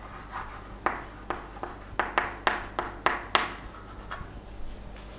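Handwriting strokes: a run of short, quick pen strokes, a few a second, from about a second in to about four seconds in.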